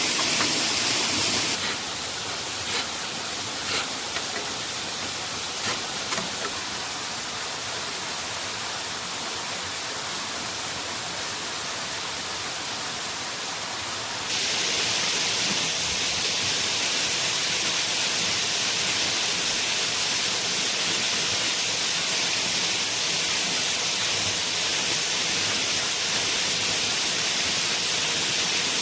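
Steady rush of a waterfall. It turns duller and quieter about a second and a half in, then abruptly brighter and louder again about halfway through. A few light knocks come early on the duller stretch.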